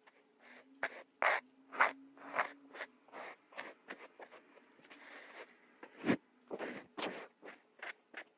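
Kinetic sand being worked: a quick run of short scraping strokes, about two a second, with a longer soft hiss about five seconds in.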